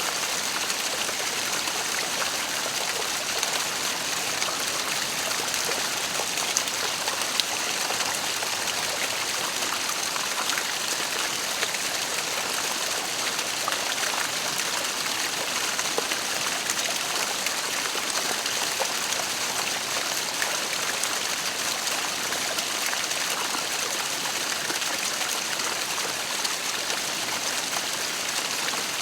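Waterfall water falling and splashing as a steady, even rush, with small splashes ticking through it.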